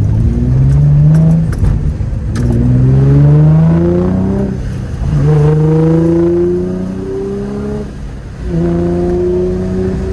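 2004 Infiniti G35's 3.5-litre V6 through a Motordyne TDX-2 Shockwave cat-back exhaust, loud under hard acceleration. The engine pitch climbs steadily, drops back at each upshift, then climbs again, about three times.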